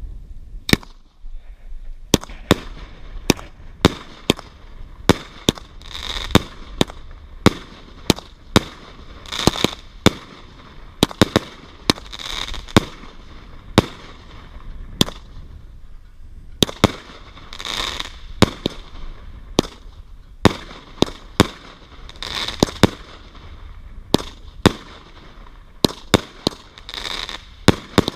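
Fireworks going off in a long, irregular string of sharp bangs, often one or two a second, with a crackling fizz after many of them.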